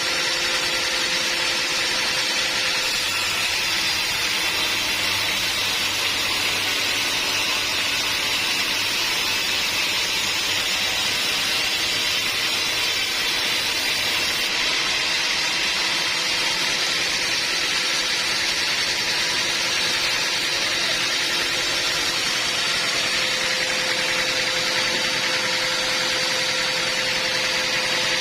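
Sawmill machinery running steadily: an even, unbroken mechanical noise with a few faint steady tones in it.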